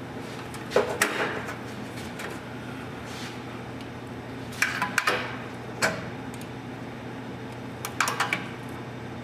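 Metal clanking and knocking of tools and exhaust parts, in four short groups of sharp knocks, over a steady low hum.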